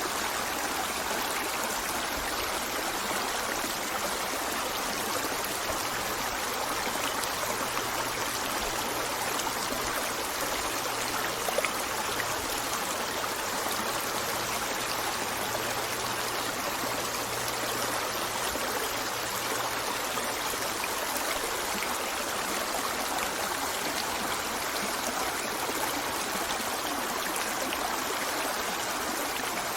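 River water flowing and rippling over stones, a steady rushing babble with no breaks.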